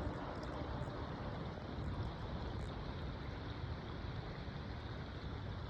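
Steady rushing of flowing water, like a stream, with a few faint ticks.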